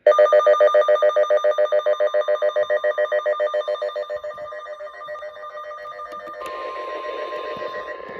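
A fast pulsing, ringing electronic tone, about eight pulses a second, that fades away, then about six seconds in the weather radio's single steady warning alarm tone begins, heard through crackly static from weak reception.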